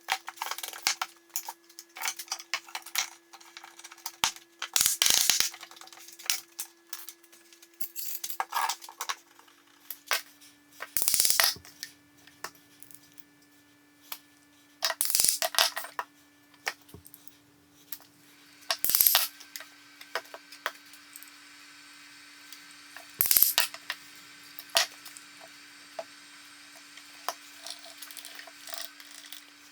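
Hand work with small hard objects: scattered clicks, clinks and knocks, several louder knocks spaced a few seconds apart, over a faint steady hum.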